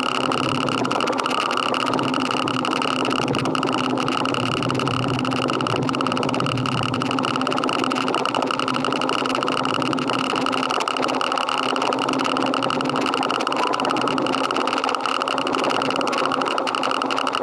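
Motorcycle engine running steadily, a constant mechanical drone that holds the same level throughout.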